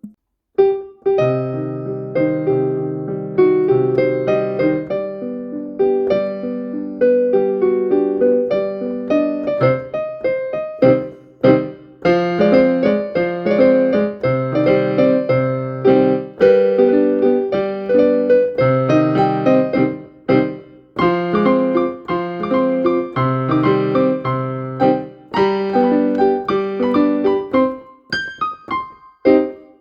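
Piano-voiced keyboard playing a slow melody over held low notes and chords, thinning to a few separate notes near the end.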